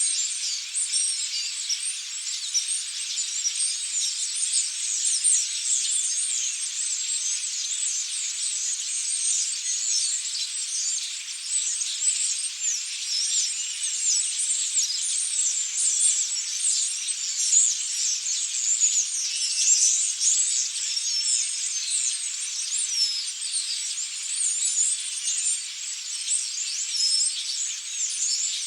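A large flock of European starlings chattering: a dense, unbroken mass of overlapping high squeaks, clicks and whistles.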